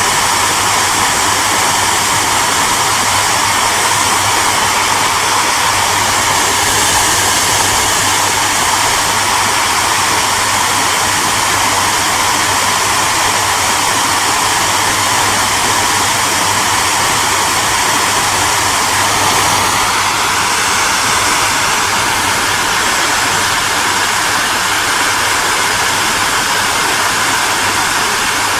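Hair dryer running steadily: a constant rush of blown air over its motor's low hum, with no change in speed.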